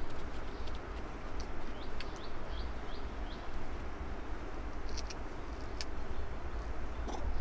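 Outdoor ambience: a small bird gives a run of about five short, falling chirps in the first half, over a low, uneven rumble, with a few sharp clicks later on.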